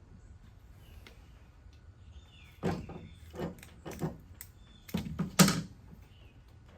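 Knocks and thumps on a pickup tailgate as a tailgate seal strip is pressed into place: five irregular hits over about three seconds, the last two loudest.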